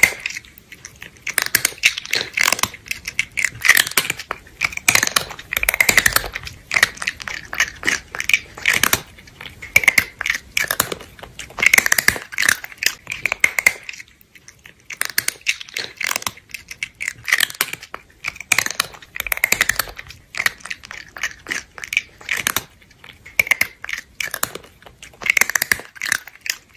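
Close-up eating sounds: rapid, irregular chewing and crunching of food, with a brief lull about fourteen seconds in.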